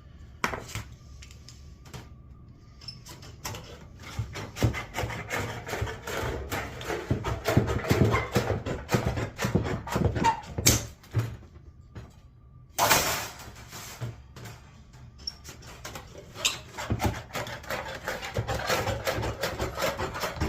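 Rapid clicking and scraping of hand tools working sheet metal, in two runs of several seconds with a short quieter pause between them about twelve seconds in.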